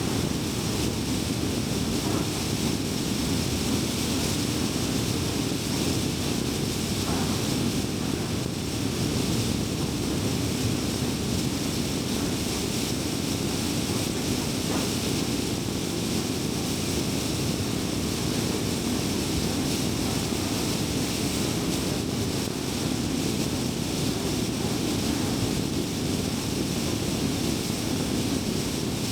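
A car driving at highway speed: a steady rumble of tyre and road noise with the engine underneath, and no sharp events.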